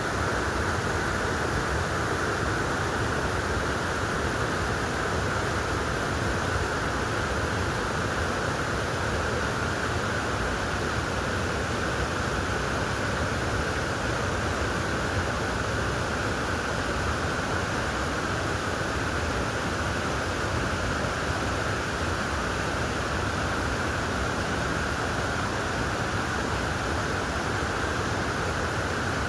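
Steady, even rush of flowing water in a mountain valley stream.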